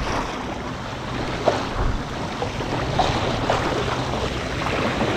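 Water rushing and splashing along the hull of a Catalina 25 sailboat under sail, with wind buffeting the microphone in a steady low rumble.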